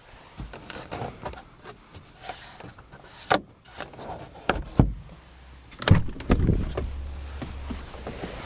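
Scattered clicks and knocks from the car's interior fittings being handled, the loudest about three, five and six seconds in, followed by a low rumble from about six seconds on.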